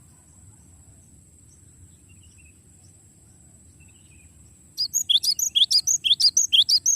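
Cinereous tit (gelatik batu) singing a fast rolling trill of sharp, repeated notes, about seven a second, that starts loud near the end after a few seconds of only faint, distant chirps.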